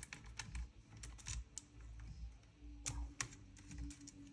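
Scattered light clicks and taps of small parts being handled during disassembly of a Krytac Kriss Vector gas-blowback airsoft gun, with two sharper clicks close together about three seconds in.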